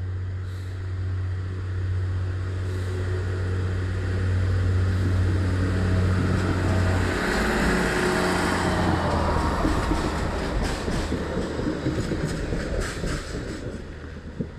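Red passenger train passing close by: a steady low hum, then wheel and rail noise swelling to its loudest about eight seconds in. The wheels click over the rail joints in the last few seconds.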